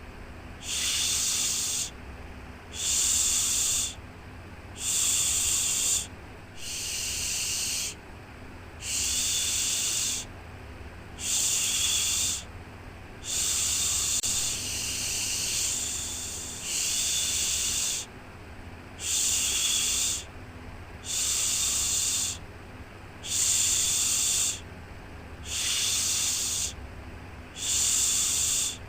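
Rhythmic baby-soothing shushing: a long 'shhh' about every two seconds, each lasting about a second, over a faint steady low hum.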